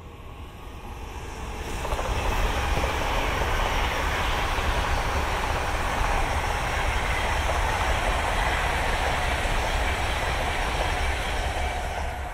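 High-speed electric train passing at speed: a steady running noise of wheels on rail and rushing air builds up over the first two seconds, holds, and begins to fade near the end.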